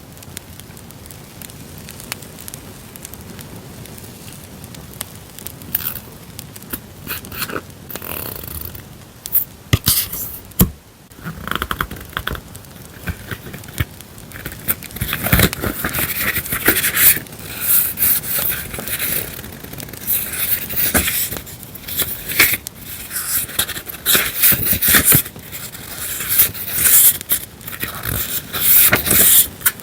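Paper stationery being handled, rustling and scraping, over a steady added campfire crackle. The handling starts about seven seconds in and becomes busier and louder through the second half.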